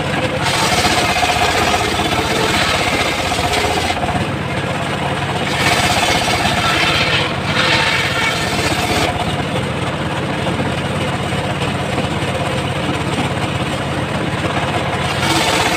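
Homemade circular sawmill running steadily with a constant low drone, its blade cutting teak in three spells of louder, hissing rasp through the wood.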